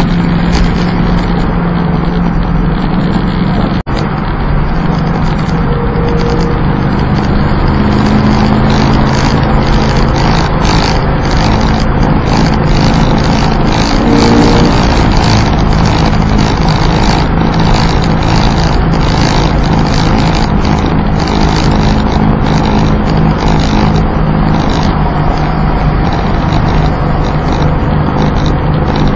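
Plymouth Volaré's slant-six engine and road noise while cruising, heard from inside the car: a loud, steady drone whose engine note shifts slightly in pitch, with one brief dropout about four seconds in.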